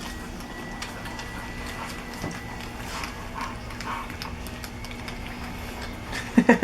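Labrador puppies eating soft food from a shared bowl: a steady run of small, irregular lapping and smacking clicks.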